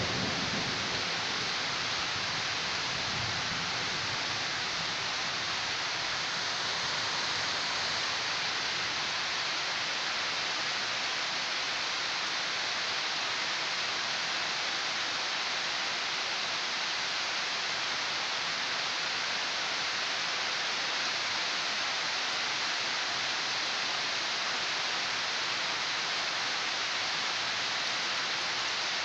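Steady rain falling in a thunderstorm, an even hiss that holds level.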